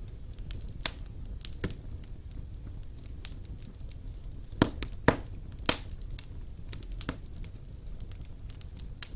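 Wood fire burning in a fireplace: a low steady rumble under scattered sharp crackles and pops, the loudest three coming close together about halfway through.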